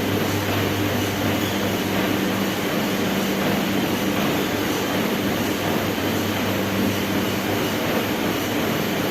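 Treadmill running: a steady motor hum under continuous belt noise.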